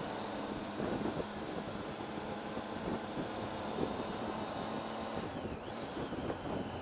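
Triumph Tiger 800's three-cylinder engine running steadily at road speed, heard from the rider's seat under the rush of wind over the microphone.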